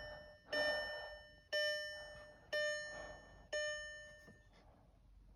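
Car dashboard warning chime with the ignition switched on for a glow-plug cycle before a diesel cold start: five bell-like dings, about one a second, each fading, stopping about four and a half seconds in.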